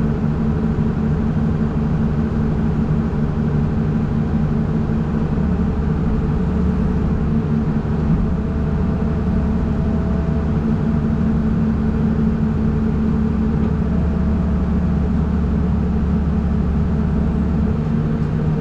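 Heavy vehicle engine running steadily at an even speed, with a faint higher whine that comes and goes twice.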